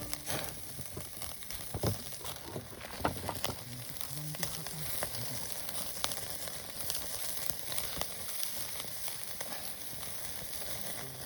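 Food frying over a fire: a steady sizzling hiss with scattered sharp pops and crackles.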